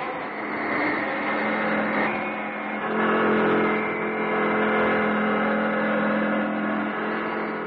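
Cartoon sound effect of racing boats' engines: a steady droning hum with higher whining tones that shift a couple of times.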